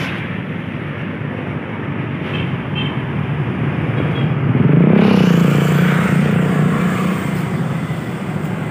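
Road traffic noise, with a vehicle passing close and getting louder about five seconds in, then fading.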